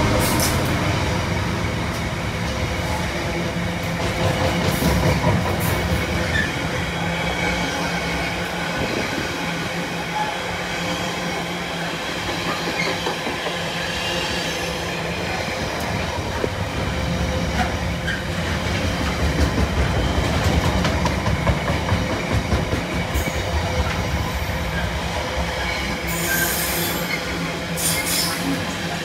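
Container wagons of a long intermodal freight train rolling past at speed: a steady rumble and clatter of steel wheels on the rails, with sharper high rattles near the end.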